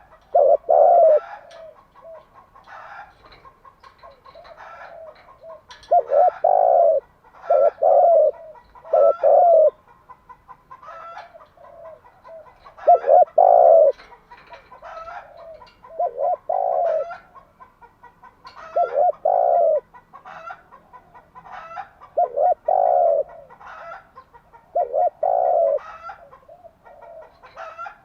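Spotted dove cooing: deep, repeated coos in short phrases of two or three notes, coming every few seconds.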